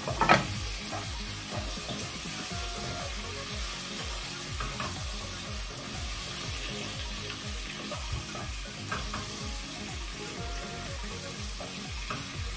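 Tomato, onion and garlic sizzling in oil in a frying pan, stirred with a wooden spatula that scrapes and taps the pan now and then. A louder knock comes just after the start.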